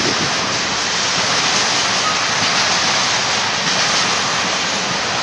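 Long freight train of tank cars rolling past: a steady, even rush of steel wheels on rail.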